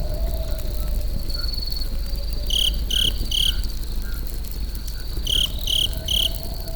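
Campfire burning with a steady low rumble, under a thin, steady high insect trill. Short high chirps come in runs of three, once about halfway and again near the end.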